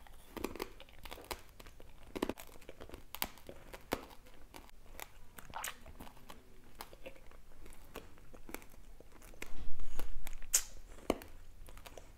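Close-up chewing of a candied apple: the hard candy shell and apple crunching with sharp, irregular cracks. A louder low rumble comes about ten seconds in.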